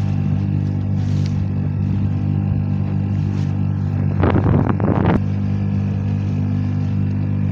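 A pleasure boat's engine runs at a steady drone. About four seconds in there is a loud noisy rush lasting roughly a second.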